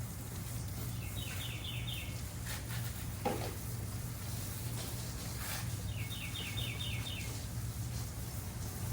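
A songbird singing a phrase of five or six quick, evenly repeated chirps, twice, about five seconds apart, over a steady low hum. A single short knock comes about a third of the way in.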